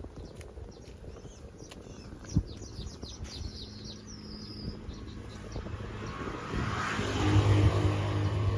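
Small birds chirping with short, quick calls through the first half. From about two-thirds in, a low, steady drone builds and becomes the loudest sound.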